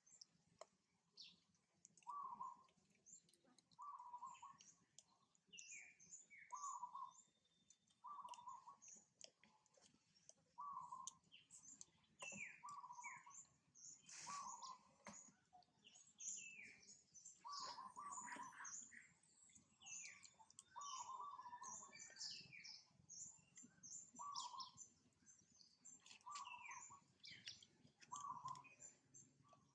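Faint outdoor birdsong: one bird repeats a short low note about once a second, while others chirp quickly at a higher pitch.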